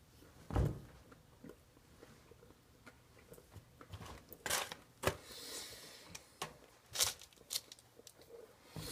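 Someone eating a burger: scattered mouth clicks and smacks of chewing, with a dull low thump about half a second in.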